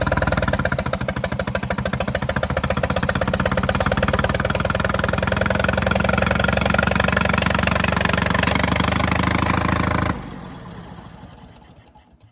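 The Massey Ferguson 204 forklift's engine running with a rapid, even firing pulse. The sound cuts off sharply about ten seconds in and fades away.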